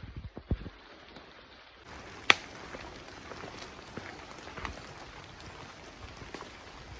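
Light rain: a steady hiss with scattered drops ticking, and one sharp tap about two seconds in. A few low thumps at the start.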